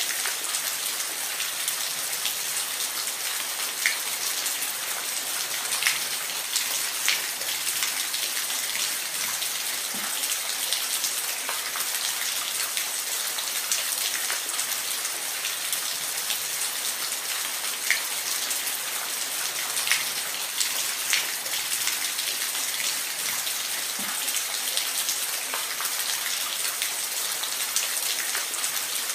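Steady hiss of falling water, with single drops and splashes standing out every few seconds.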